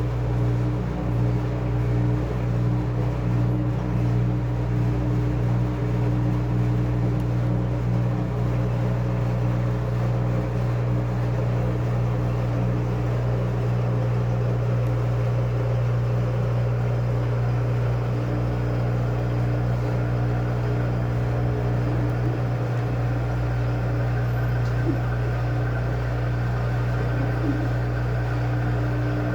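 Washing machine running with a steady, loud motor hum and fixed whining tones, unchanging throughout.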